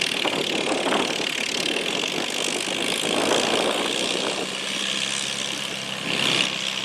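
1953 Farmall Super M tractor's four-cylinder engine working hard under full load while pulling a weighted sled. About four seconds in, a steadier low hum sets in.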